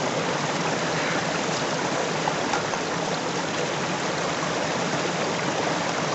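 River water flowing past the camp: a steady, unbroken rushing of water.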